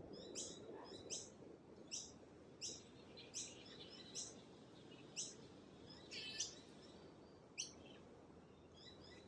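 Faint bird chirping: short high chirps repeated about every three-quarters of a second, with a longer call a little after the middle, over a low steady room hum.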